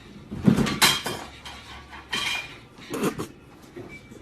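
A few separate clattering knocks of hard objects, like dishes or utensils being knocked about.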